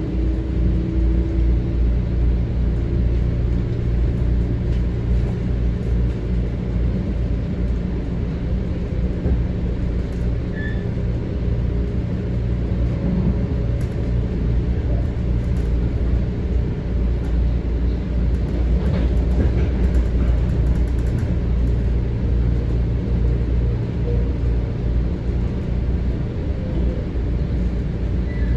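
Metro-North M7A electric multiple-unit train running steadily on the rails, a continuous low rumble of wheels and running gear heard from inside the passenger car.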